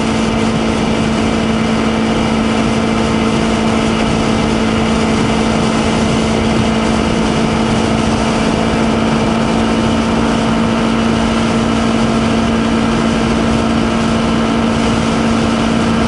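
Honda CBR250RR's parallel-twin engine cruising in sixth gear at about 7,000 rpm at highway speed, holding a steady pitch, with a steady rush of wind.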